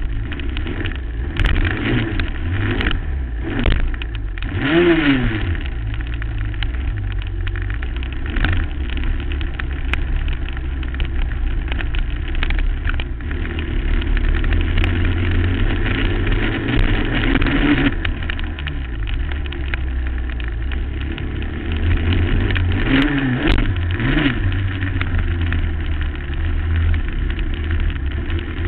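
2008 Suzuki LT-R450 quad's single-cylinder four-stroke engine revving up and down under riding, over a steady low rumble and short knocks. The revs rise and fall sharply about five seconds in and twice more near the end.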